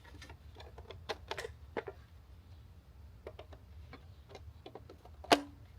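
Plastic parts of a bird-feeder camera housing being handled and fitted together: scattered light clicks and taps, then one sharp, loud snap near the end as the top piece clips into place.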